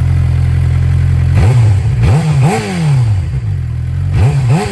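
2019 Suzuki GSX-R600's inline-four engine on its stock muffler with catalytic converter, idling steadily and then revved in two pairs of quick throttle blips, about a second and a half in and again near the end, each falling back to idle. The stock exhaust sound that the owner calls terrible.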